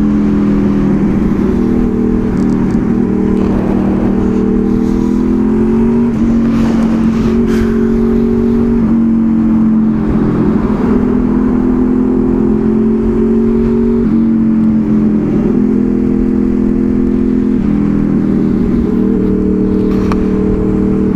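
2002 Honda VFR800 Interceptor's V4 engine running through city traffic. Its pitch holds steady for stretches and steps up or down several times as the revs change.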